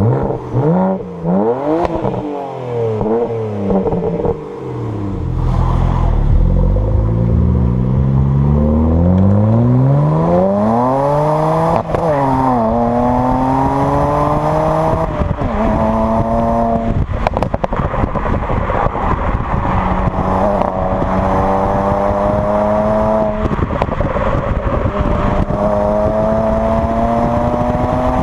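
BMW 335i's twin-turbo straight-six, running an MHD Stage 1 map with burbles, blipped through a few quick revs, then pulling hard through the gears: a long climb in revs, a shift, a shorter climb and shift, then a slow steady rise. Light crackling comes from the exhaust along the way.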